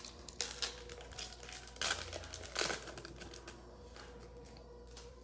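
Plastic wrapper of a football trading-card pack crinkling and tearing as it is opened. It comes in several short bursts over the first three seconds, then dies down to faint handling noise.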